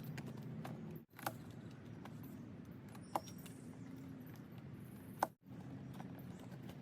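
Faint steady low hum of background noise with three short light clicks, about two seconds apart.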